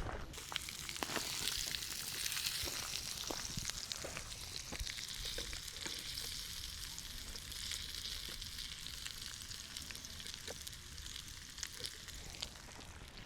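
Food sizzling in a hot pan: a steady frying hiss full of small crackling pops that dies away near the end.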